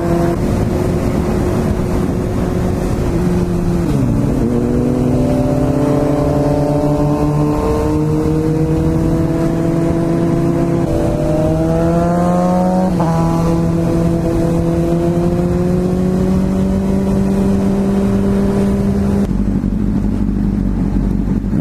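Sport motorcycle engine running under way, with wind rushing past: its pitch climbs slowly as the bike gathers speed, breaks at gear changes about four, eleven and thirteen seconds in, then holds steady at a cruise before the engine note drops off near the end.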